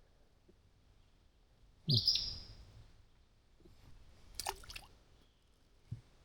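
A few short bird calls, with a brief louder sound about two seconds in and a soft thump near the end.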